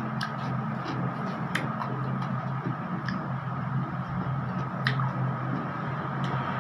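Close-up eating noises of someone chewing rujak: scattered sharp clicks and smacks, about six in all, over a steady low hum.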